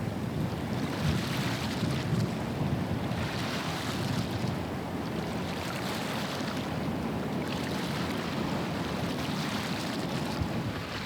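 Wind rumbling on the microphone over waves washing along a shoreline, the hiss of the water swelling and fading every couple of seconds.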